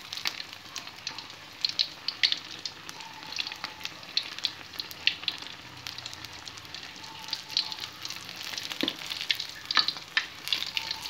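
Pieces of kremes-battered chicken sizzling in hot oil in a metal wok, with steady crackling and popping, and a spatula knocking and scraping against the pan as the pieces are turned.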